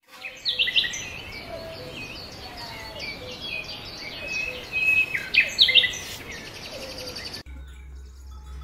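Several birds singing and chirping, with quick, repeated high calls over a steady background hiss, all cutting off suddenly about a second before the end, leaving only a faint low hum.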